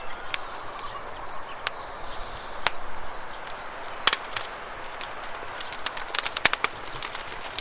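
Campfire crackling: scattered sharp pops and snaps, a cluster about four seconds in and a quick run near the end, over a steady rush of flowing river water.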